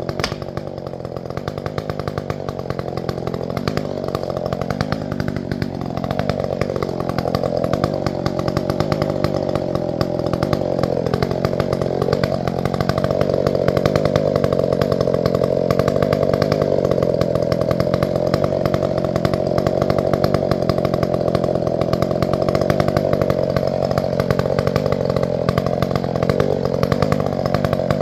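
Chainsaw running under load as it cuts into a fir tree. The engine pitch dips twice as the chain bogs in the wood, about five and eleven seconds in, then holds steady and gets louder.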